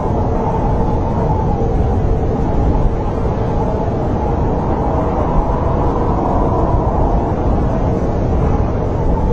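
Snowstorm wind blowing steadily: a loud, deep rumble with a faint wavering whistle on top.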